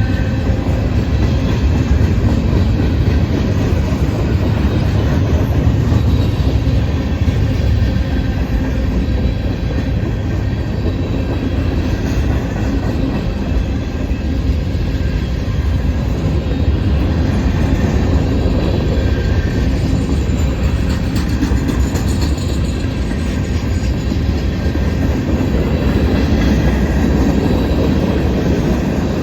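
Norfolk Southern manifest freight train's cars rolling past: a loud, steady rumble of steel wheels on the rails, with faint wheel squeal now and then.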